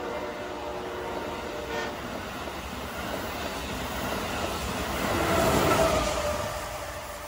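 Amtrak Acela Express high-speed trainset passing at speed: a steady rush of wheels and air as the cars go by, with its horn dying away in the first two seconds. The rush swells about five seconds in as the last cars pass, then fades as the train moves off.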